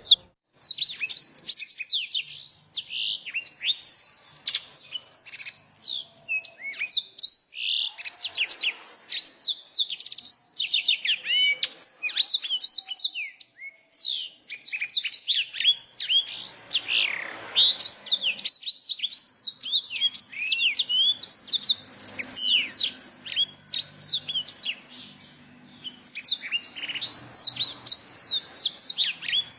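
Songbird singing a fast, continuous run of high, sweeping chirps and trills, with a couple of brief pauses.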